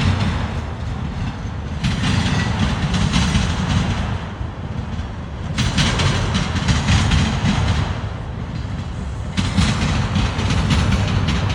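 CSX freight cars rolling slowly past over a steady low rumble, with a burst of wheel clatter about every four seconds.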